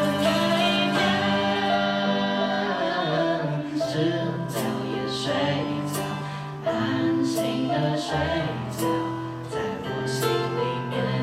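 Live pop band playing a song with singing over sustained keyboard and guitar chords, bass and drums. Cymbal strokes come in repeatedly from about four seconds in.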